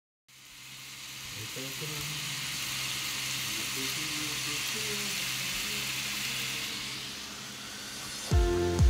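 Food frying in a hot pan, a steady sizzle that fades in at the start. Faint voices sit underneath, and music with a deep, thumping beat comes in near the end.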